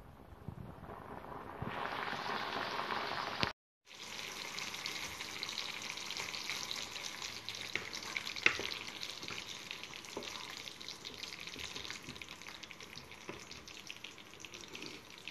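Chicken wings frying, a steady sizzle full of fine crackles, broken off briefly just before four seconds in and resuming; one sharp pop stands out a little after eight seconds.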